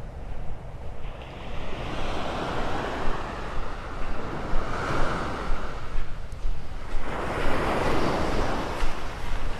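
Small Gulf of Mexico waves washing up on the beach, two surges that swell and fade, over a steady low rumble of wind on the microphone.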